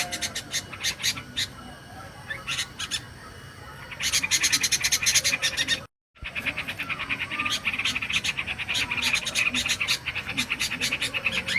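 Yellow-vented bulbul (trucukan) call played as a bird-lure recording: separate sharp notes at first, then a dense, fast chatter. The sound cuts out completely for a moment about six seconds in, then the chatter resumes.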